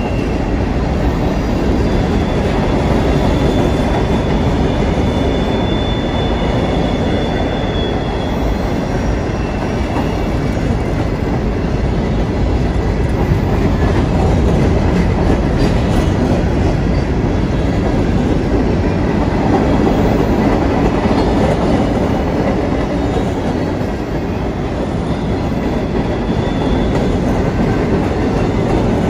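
Empty freight hopper cars (stone cars) rolling past on steel wheels, a steady loud rumbling clatter of wheels over the rails. A thin, high wheel squeal sounds from about two seconds in to about eight.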